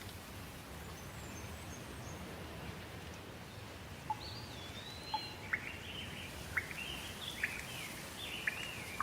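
Steady rain with a bird singing over it from about four seconds in: quick whistled notes sliding up and down, among short sharp clicks.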